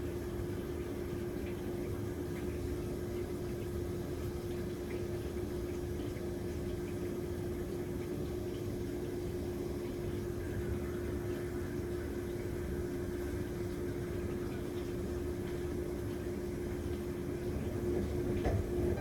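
Steady hum of a small household machine: one constant droning pitch over an even hiss, with no change until it stops near the end.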